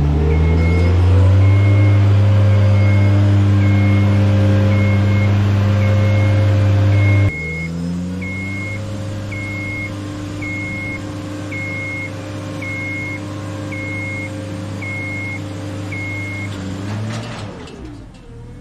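Genie aerial work lift raising: its power unit runs up to speed with a steady hum, with the lift's motion alarm beeping about once a second. The hum drops to a lower, quieter pitch about seven seconds in and winds down near the end, as the lift stops.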